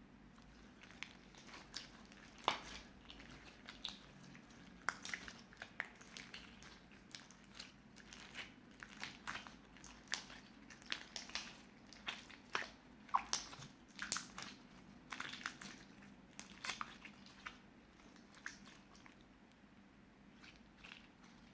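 Clear slime mixed with small crystals being worked by hand: irregular sticky clicks, pops and crackles, thinning out near the end.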